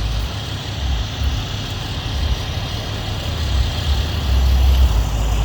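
A tow truck's engine idling with a steady low rumble that swells now and then.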